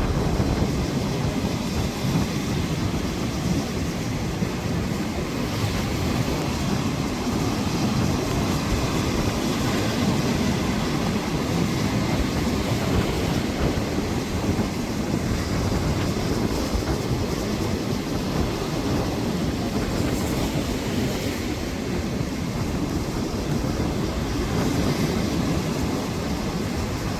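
Strong wind buffeting the microphone at a stormy seashore, with surf beneath it: a steady, rumbling roar of noise.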